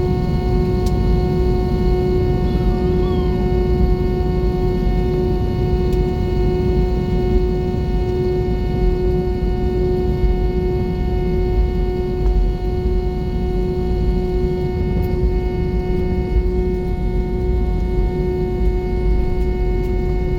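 Cabin noise inside an Airbus A320 under way: a steady, loud rumble of engines and airflow with a constant engine whine held at one pitch.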